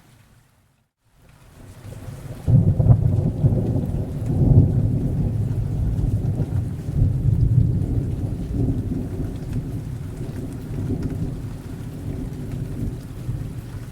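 Thunderstorm: after about a second of dead silence, a long peal of thunder rolls in about two seconds in, strongest over the next few seconds, then slowly eases into a low rumble over steady rain.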